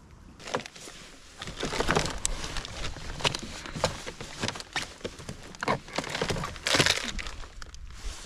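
Plastic packaging of a fishing lure crinkling and crackling as it is handled and opened, with irregular sharp clicks and rustles.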